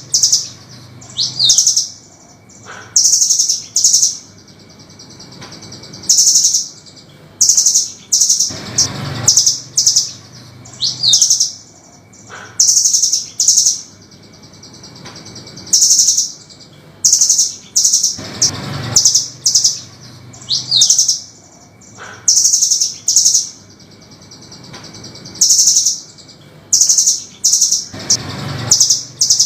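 Velvet-fronted nuthatch (burung rambatan) calling in quick rows of sharp, harsh, high-pitched notes. The same sequence repeats about every ten seconds, as a looped recording.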